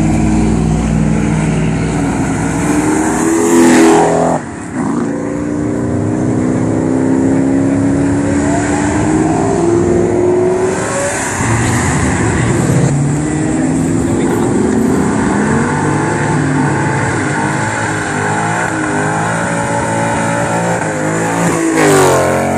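Ford Mustangs accelerating hard away one after another, the engine note climbing in long rises as each pulls through its gears. The loudest passes come about four seconds in and again near the end.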